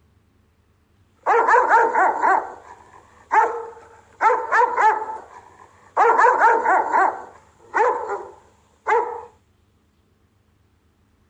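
Rottweiler guard-barking: volleys of rapid barks, several in quick succession, with short gaps between the volleys. It starts about a second in and stops shortly before the end.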